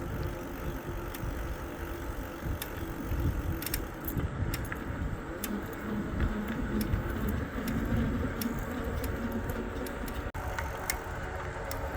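Riding an e-bike along a paved trail: steady wind rumble on the microphone and rolling noise, with scattered light rattles and clicks from the bike.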